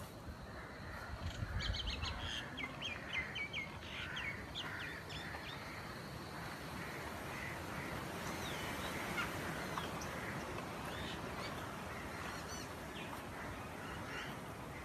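Birds chirping and calling, with a quick run of short high calls about two to four seconds in, over a steady background noise.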